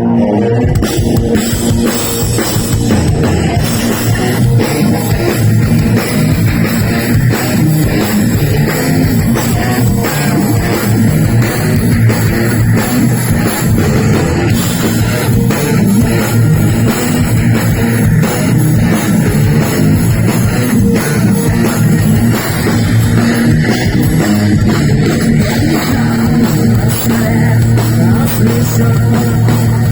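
Heavy metal band playing live and loud: a pounding drum kit under distorted electric guitars and bass, running without a break.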